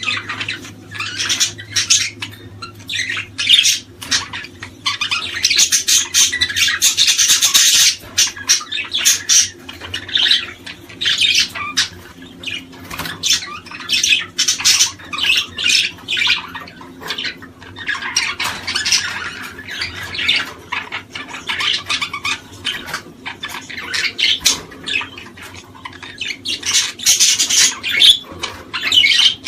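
Many small cage birds chirping and squawking at once in a busy, unbroken chatter, over a steady low hum.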